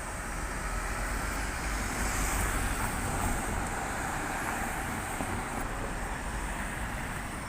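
City street traffic: road vehicles driving past, a steady rumble and tyre noise that swells slightly about two seconds in.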